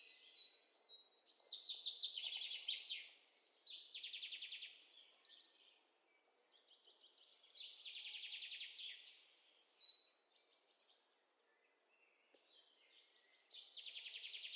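Small birds singing: a run of rapid, high trilled phrases, one after another, with two short lulls.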